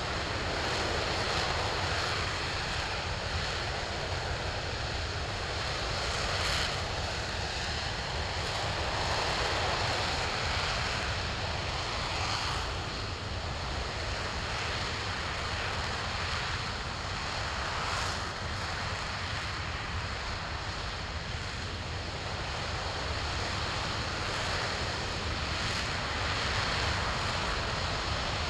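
RS-25 liquid-hydrogen/liquid-oxygen rocket engine firing on a test stand: a steady, unbroken rushing noise across the whole range of pitch.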